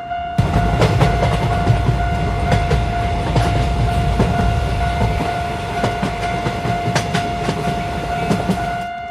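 A train passing: a heavy low rumble with the wheels clacking over rail joints, starting suddenly about half a second in and cutting off near the end. A steady high tone sounds throughout.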